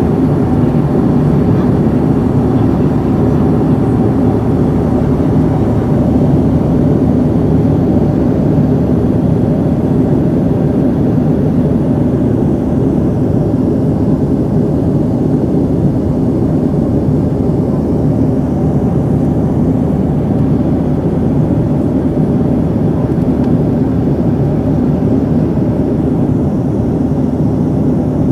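Steady drone inside an airliner's cabin in flight: engine and airflow noise, deep and unchanging, with a faint steady hum in it.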